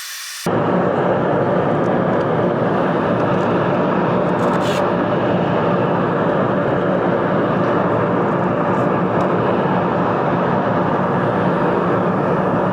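Woodshop machinery running: a loud, steady whooshing drone with a faint hum under it, starting abruptly about half a second in.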